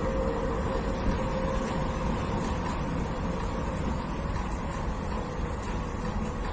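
Steady car driving noise: road and engine hum at an even level, with a faint steady tone and no impacts.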